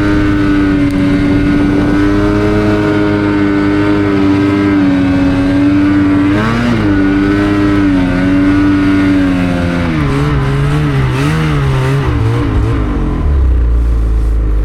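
Snowmobile engine running at high revs with a steady pitch that dips once and then wavers up and down, before dropping to a low idle near the end.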